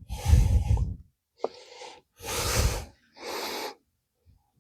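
A person breathing heavily close to the microphone, two breaths in and out about a second apart, the outbreaths buffeting the mic. A small sharp click about a second and a half in.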